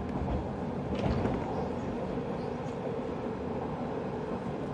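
Running noise of a JR 185 series electric train heard from on board: a steady rumble of wheels on rail, with one sharp knock about a second in.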